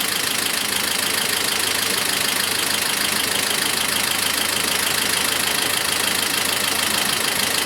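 Toyota 2TR four-cylinder petrol engine idling steadily while 12 V is fed to its intake VVT-i oil control valve. The idle does not change at all, a sign that the variable valve timing is not responding.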